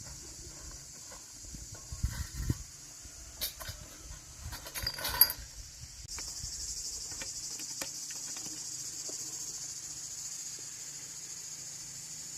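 Insects chirring in a steady high-pitched drone, with a few knocks and a brief clatter between about two and five seconds in; the chirring gets abruptly louder about six seconds in.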